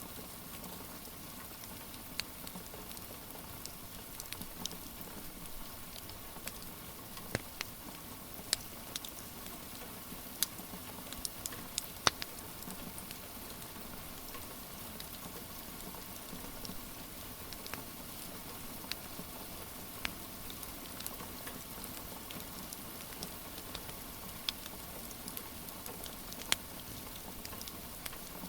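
Steady rain hiss with irregular sharp crackles and pops from a wood fire, the loudest pop about twelve seconds in.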